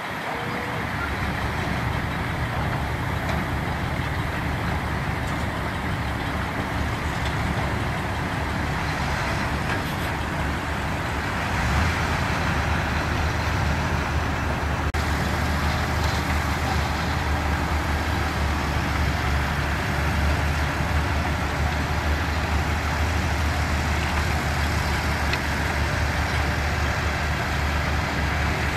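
Diesel engines of heavy construction machinery (bulldozers and dump trucks) running steadily. About twelve seconds in, the low engine drone grows stronger and a little louder, as if the engine is put under more load or revved up.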